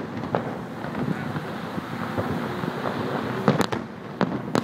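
Aerial fireworks shells bursting with sharp bangs over a continuous rumble, one bang shortly after the start and a quick cluster of several about three and a half seconds in, followed by two more near the end.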